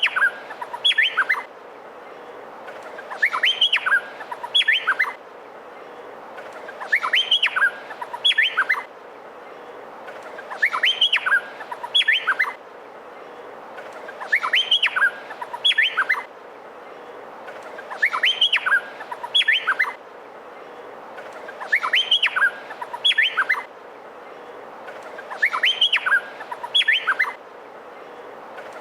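Male Meliphaga honeyeater (cucak pantai) singing: the same short phrase of quick rising whistled notes repeats about every four seconds, over a steady hiss.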